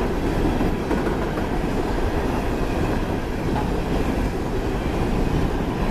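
Empty open-top coal cars of a freight train rolling past: the steady noise of steel wheels running on the rails.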